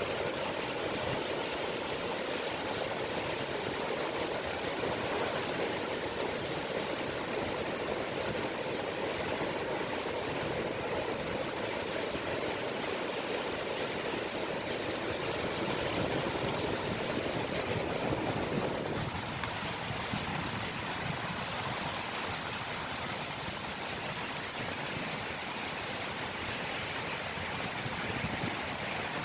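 Small sea waves lapping and washing steadily on a beach shore of the Seto Inland Sea. The lower part of the wash drops away suddenly about two-thirds of the way in.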